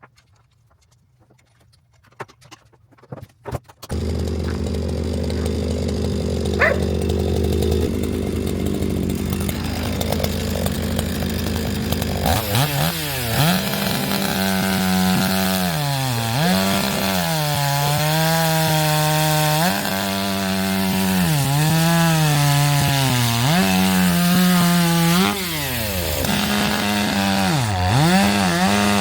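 Chainsaw cutting firewood. A few light knocks come first; about four seconds in the saw starts running steadily, and from about twelve seconds it revs up and its pitch repeatedly sags and recovers as the chain bites into the wood.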